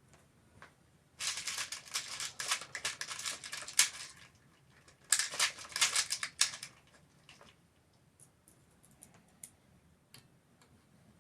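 Small metal tool parts rattling and clicking as they are handled, in two bursts of quick clatter, then a few scattered ticks.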